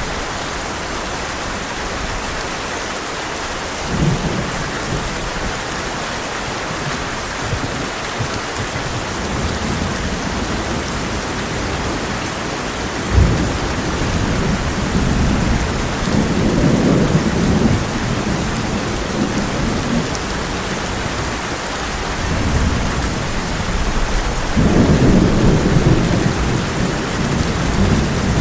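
Heavy rain drumming steadily on a tin roof, with thunder: a short thump early on, a sudden sharp crack about halfway through, then rolling rumbles, the longest and loudest near the end.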